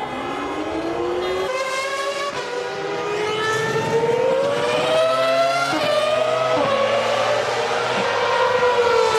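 Formula One engines running at moderate revs, several at once, their pitches rising and falling slowly as cars pass.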